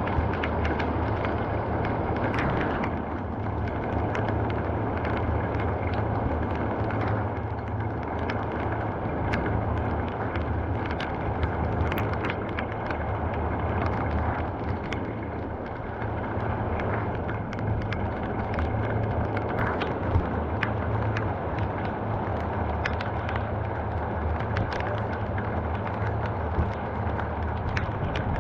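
Heavy rain falling steadily, with many individual drops ticking sharply on a nearby surface over a steady low rumble.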